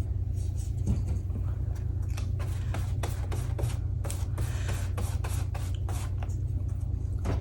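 Gel-printed paper being handled and pressed into place, giving irregular short rustles and crinkles over a steady low hum.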